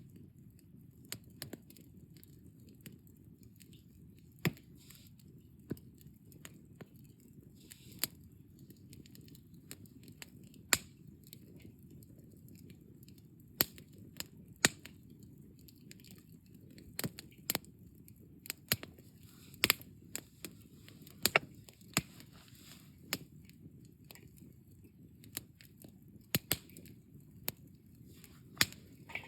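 Wood campfire burning down to glowing embers, crackling with sharp irregular pops over a steady low noise from the fire.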